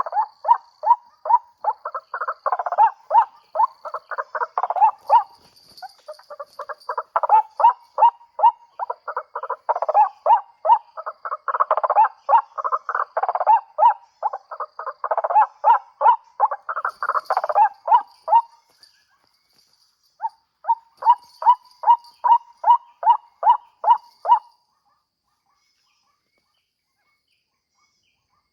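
White-breasted waterhen (ruak-ruak) calling: a loud, rapid series of repeated call notes at about three a second. The calling breaks off briefly about two-thirds of the way through, starts again, then stops shortly before the end.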